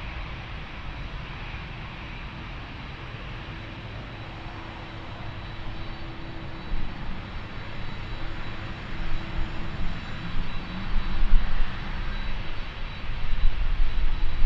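Jet airliner's engines: a steady rush with a faint hum, growing louder from about halfway through.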